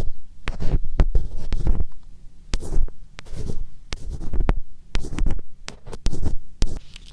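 Close-miked ASMR scratching ('karikari'): irregular scratching strokes and clicks about every half second, each with a heavy low rumble from the microphone being rubbed, and a softer stretch near the end.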